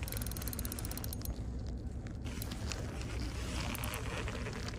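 Fishing reel being cranked against a heavy, barely moving load, with faint rapid clicking over a steady low rumble.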